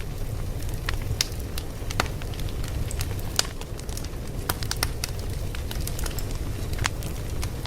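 Wood fire burning, with a steady low rumble under irregular sharp crackles and pops.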